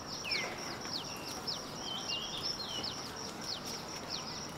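Many small birds chirping at once, rapid short calls falling in pitch, over a steady hiss of outdoor background noise.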